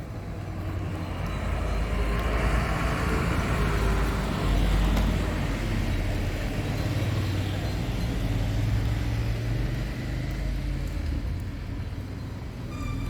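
A motor vehicle's engine running, a low rumble that swells over the first couple of seconds and then holds steady.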